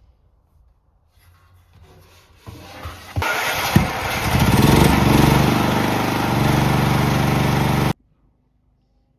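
A motor running loudly with a steady hum. It starts about three seconds in and cuts off abruptly near the end.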